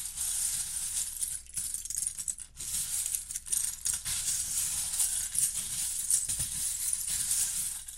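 Loose plastic Lego bricks rattling and clattering together in a dense run of small clicks, with a few brief pauses.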